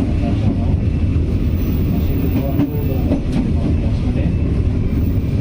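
Passenger train running along the track: a loud, steady rumble of wheels on rail.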